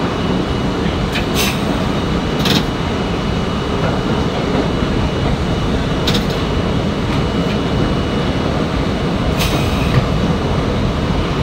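Train running on rails: a loud, steady rumble with a faint high steady tone over it and several brief sharp high-pitched clicks or squeaks scattered through.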